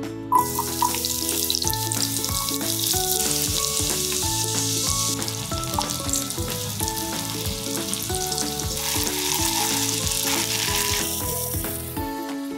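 Hot cooking oil in a frying pan bursts into sizzling as sliced garlic is tipped in, then keeps up a loud steady sizzle as a chili spice paste fries and is stirred. The sizzle dies down near the end.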